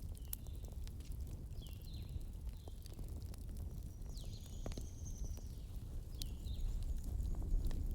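Wood fire burning in a fireplace: a steady low rumble with irregular crackles and sharp pops. Several short high whistling chirps that glide downward come through, with a longer high whistle around the middle.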